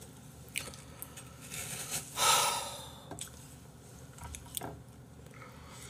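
Chewing apple slices: small scattered crunches and mouth clicks, with one louder breath about two seconds in.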